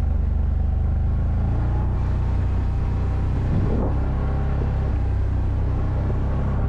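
ATV engine running steadily under way, with a brief change in pitch a little past the middle.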